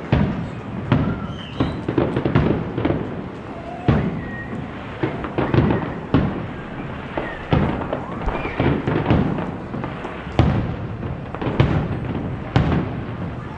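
Aerial firework shells bursting one after another, about one a second at uneven gaps, each a sharp bang with a deep boom.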